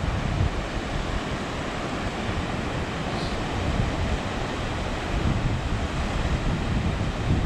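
Ocean surf washing onto the beach, a steady rushing noise, with wind buffeting the microphone in low, uneven gusts.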